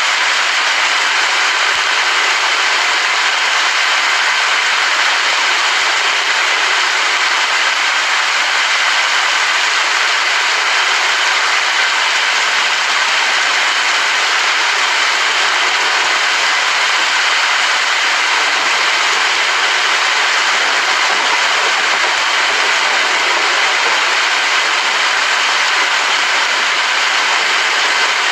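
Steady rain falling, an even hiss with no let-up or thunder.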